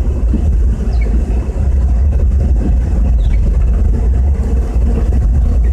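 Steady low rumble of a car driving, heard from inside the cabin: engine and tyres on a snow-covered road.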